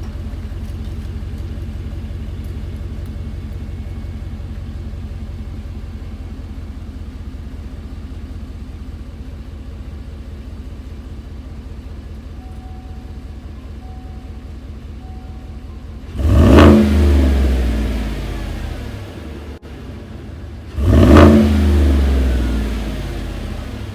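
Chevrolet Silverado 5.3-litre V8 idling through its exhaust, then revved twice near the end with two quick blips that each fall back to idle over a couple of seconds.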